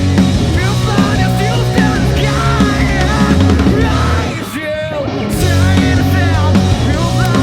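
Live grunge-style rock band playing loud, with a wavering lead melody over the band; the band drops back briefly about four and a half seconds in, then comes back in full.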